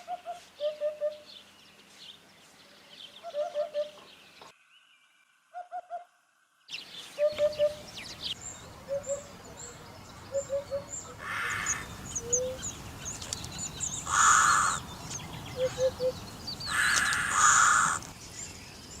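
Hoopoe calling its low, soft "oop-oop-oop" notes in short groups of two or three, repeated every second or two. High chirps from small birds come in from about eight seconds in, and several loud, harsh calls break in during the second half.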